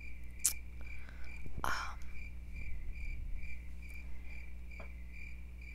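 Cricket chirping, a steady high chirp pulsing about three times a second that starts and stops abruptly like an edited-in 'crickets' effect for an awkward pause. A brief rustle of handling comes about a second and a half in.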